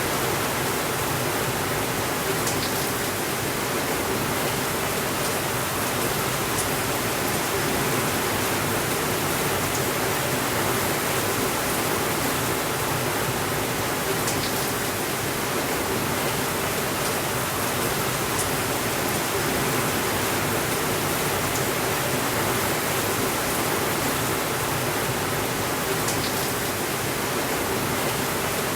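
Steady, even rainfall. A few faint, brief ticks sound high above the rain.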